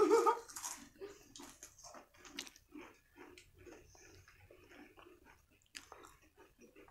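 Potato chips crunching as two people bite and chew them: a soft, irregular run of short crackles.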